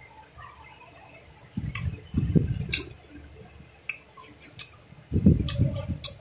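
A person chewing fruit close to the microphone, with scattered wet mouth clicks and smacks and two louder spells of chewing, about one and a half seconds in and again near the end.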